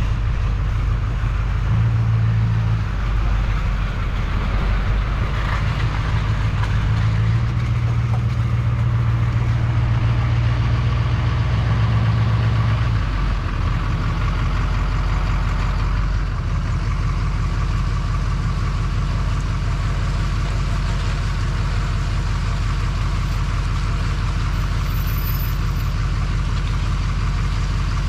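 Duramax diesel pickup engine idling, with a heavier low drone for the first dozen seconds that then drops back to a steady, even idle.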